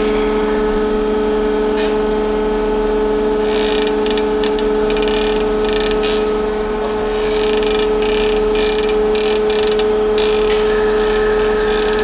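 A workshop power tool or machine running steadily with a constant pitched hum, with irregular clicking and scraping over it.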